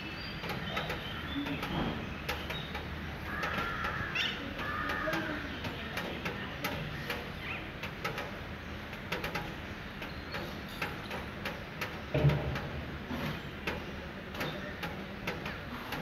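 Birds calling, with two calls close together about four seconds in, over a steady city background with scattered clicks. A single low thump comes about three-quarters of the way through.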